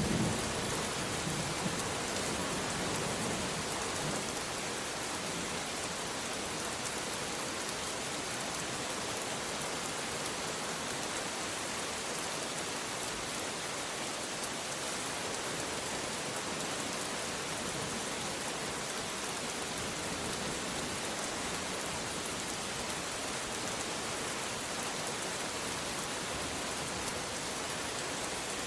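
Steady rain falling as an even hiss, with the low rumble of thunder dying away in the first second.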